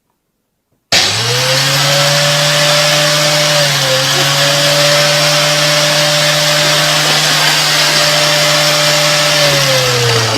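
A loud electric motor-driven machine running steadily, a whooshing noise over a constant hum, starting suddenly about a second in; near the end the hum slides down in pitch as the motor winds down.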